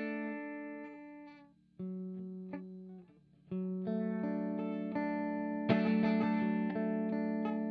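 Electric guitar played through an optical compressor pedal into a tweed-style amp sound: a held chord decays away over about two seconds, a couple of short notes follow, then new chords are strummed and left ringing with long, even sustain, a harder strum near the end.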